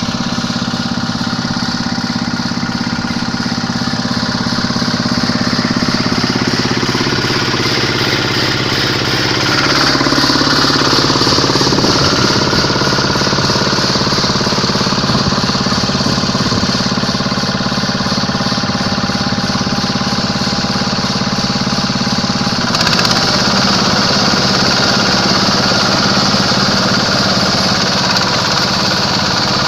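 Quick H-140R combine harvester's Kubota diesel engine running steadily. The engine note rises and grows a little louder about ten seconds in, and shifts again a little past twenty seconds.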